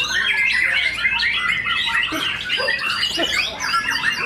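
Several caged white-rumped shamas (murai batu) singing at once in a songbird contest, a dense, continuous tangle of varied whistles and chirps.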